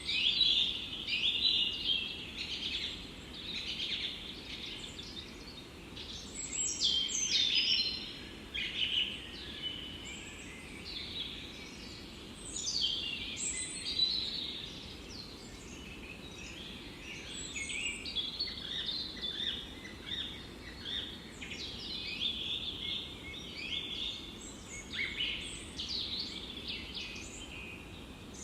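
Several forest birds chirping and singing in quick overlapping calls and trills throughout, over a soft steady background hiss.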